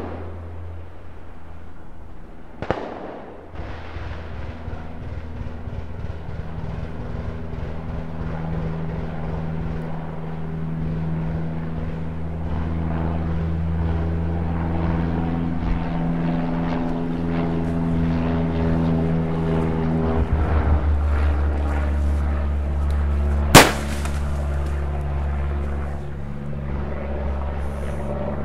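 Two gunshots from a rifle, one about three seconds in and a much louder, sharper one near the end, over a steady low hum that shifts pitch a few times.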